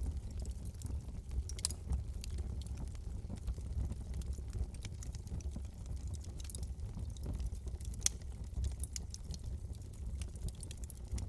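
Wood fire burning in a fireplace: irregular sharp crackles and pops over a steady low rumble of the flames, with a louder pop about eight seconds in.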